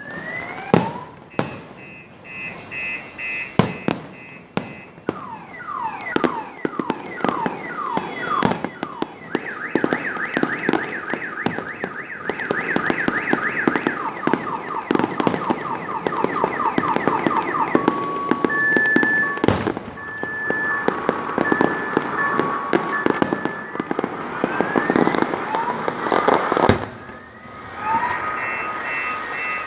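Fireworks display: many whistling shells rising in pitch one after another, with sharp bangs and dense crackling. Two loud single bangs stand out, about twenty and twenty-seven seconds in.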